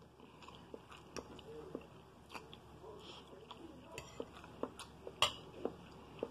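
Close-up chewing of scrambled eggs: irregular soft mouth clicks and smacks, a sharper smack about five seconds in.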